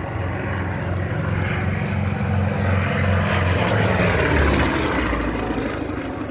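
Fokker D.XXI propeller fighter's piston engine droning as the aircraft flies past. It grows louder to a peak about four seconds in, then drops in pitch as it passes.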